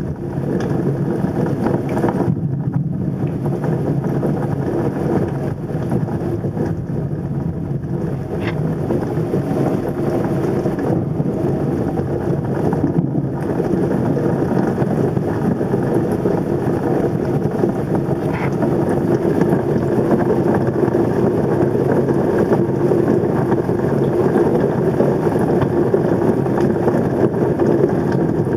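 Thunderstorm overhead: a steady, dense rush of rain and wind with no distinct thunderclap. It grows slightly louder over the last third.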